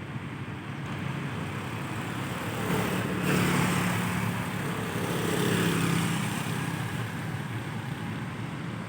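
Road traffic: a motor vehicle passes with a low engine hum and tyre noise, getting louder about three seconds in and fading again about three seconds later, over steady traffic noise.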